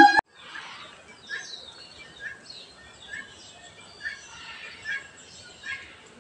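Small birds chirping, one short call repeating about once a second with other twittering in between, over faint background hiss. Background music cuts off abruptly at the very start.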